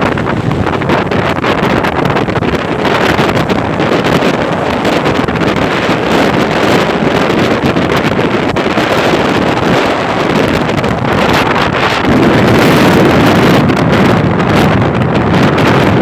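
Strong wind blowing across the microphone: a loud, steady rushing that swells a little about three-quarters of the way through.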